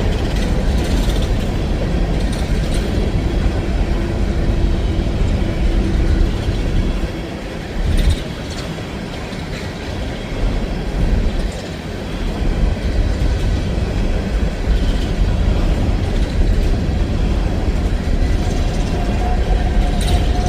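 Empty CSX coal train's hopper cars rolling past: a steady, loud low rumble of steel wheels on rail, with occasional clicks. A thin squealing tone is heard twice, a few seconds in and again near the end.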